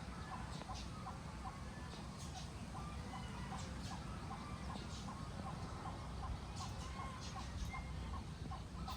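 Farmyard animal sounds: a run of short, evenly repeated clucking calls, about two to three a second, over a steady low rumble, with scattered high chirps.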